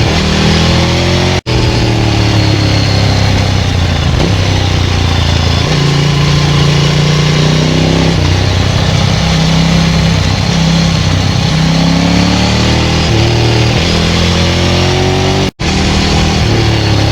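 Ducati 900SL's air-cooled V-twin running through a Termignoni full exhaust while the bike is ridden hard. Its pitch climbs under throttle and drops back at gear changes and when the throttle closes, over and over. The sound cuts out for an instant twice, about a second and a half in and near the end.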